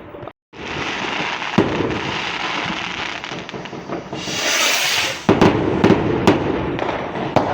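Fireworks going off: continuous crackling, a sharp bang about a second and a half in, a loud hiss a little past halfway, then a run of bangs and crackles near the end.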